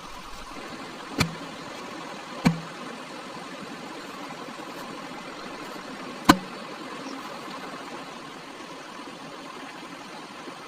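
Three sharp knocks, the last the loudest, over a steady hiss of background noise.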